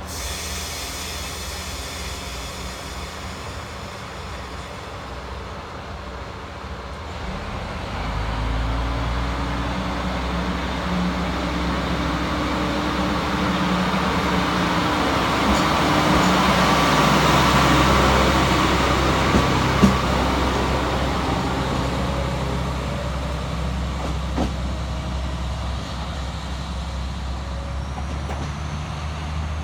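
KTR700 diesel railcar pulling away: its diesel engine idles, then revs up about eight seconds in and runs under load as the car accelerates, growing louder to a peak a little past the middle before easing off. A sharp click stands out about two-thirds of the way through.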